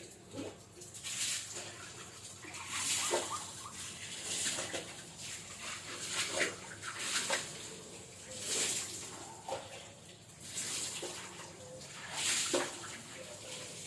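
A young jujuk (tatapaian) bird calling: raspy, hissing calls repeated every second or two, with small squeaky notes between them.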